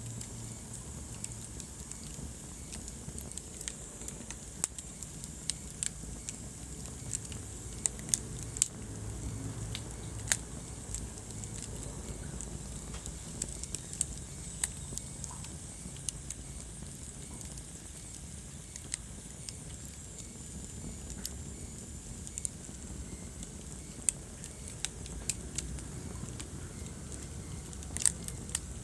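Wood fire crackling in a fireplace: irregular sharp pops and snaps, a few louder than the rest, over a steady low rumble of burning.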